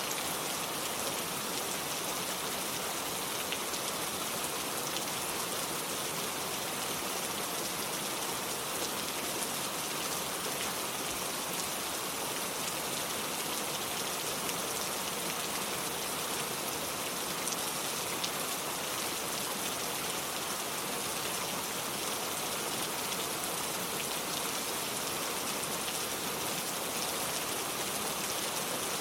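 Steady rain falling, an even hiss with scattered ticks of drops striking surfaces.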